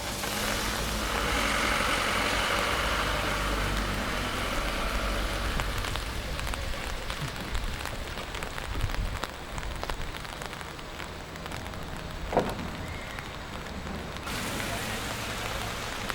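Steady rain falling, with many individual drops ticking sharply close by over a low rumble. One brief sharp sound stands out about twelve seconds in.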